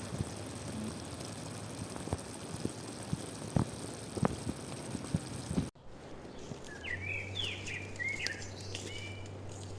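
Outdoor background hiss with scattered sharp clicks and snaps for the first half. After an abrupt cut, a songbird chirps a quick series of short calls over a low steady hum.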